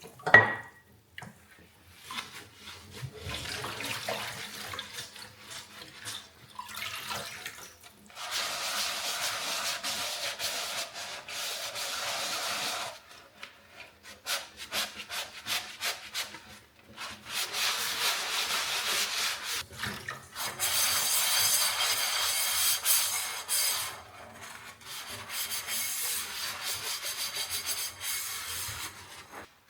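Washing up at a kitchen sink: tap water running in spells, with rubbing and scrubbing sounds between them. A sharp knock just at the start is the loudest sound.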